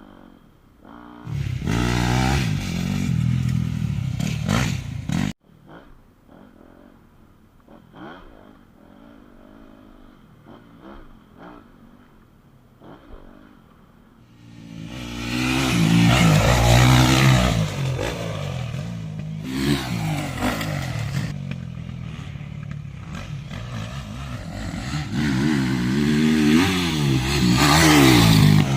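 2017 Yamaha YZ250F motocross bike's single-cylinder four-stroke engine revving up and down on the track. It is loud for a few seconds and cuts off suddenly. Then it is fainter with scattered clicks, and comes back loud from about halfway, the revs climbing and falling.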